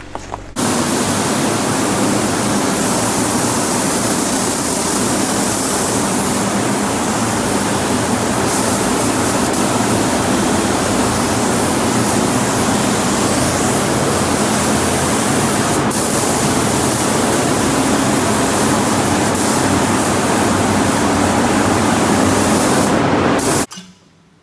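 A vehicle on the move: a loud, steady rushing noise over a low engine drone. It starts abruptly and cuts off abruptly near the end.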